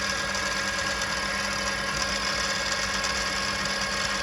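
Milling machine spindle running steadily at about half speed in its high range, a constant motor hum and whine with no change in pitch or level.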